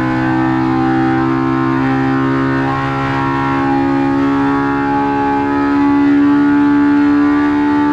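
Polaris Pro R's 2.0-litre four-cylinder engine held at high, nearly steady revs on a dynamometer, exhausting through a 3-inch straight-through aftermarket muffler; the pitch creeps up slightly as it runs.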